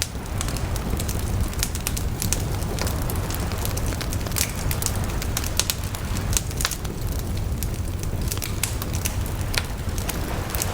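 Wood bonfire crackling, with many sharp, irregular pops over a steady low rumble.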